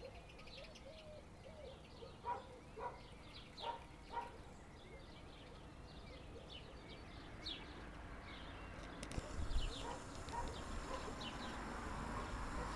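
Birds chirping and calling, with a run of sharper, lower calls in the first few seconds. Over the second half a rushing noise builds, with a few clicks and a louder knock about nine and a half seconds in.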